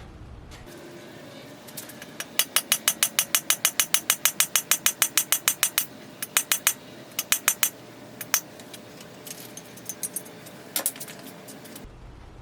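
Hammer tapping a cam bearing driver, driving a new cam bearing into a 292 Y-block: a quick run of sharp metallic blows, about five a second for several seconds, then a few single blows spaced apart.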